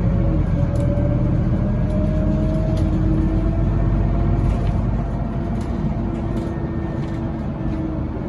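Scania Citywide LFA articulated bus running, heard from on board: a low drivetrain rumble under a steady whine that drifts slightly in pitch, with light rattling clicks. The rumble eases off about five seconds in.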